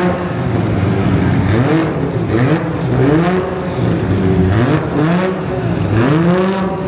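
Car engines revved in quick repeated blips, the pitch rising and falling about once a second, with more than one car's revs overlapping.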